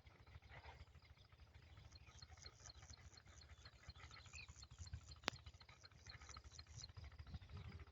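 Faint, regular series of short high chirps, about five a second, from a small animal, over a low rumble, with one sharp click about five seconds in.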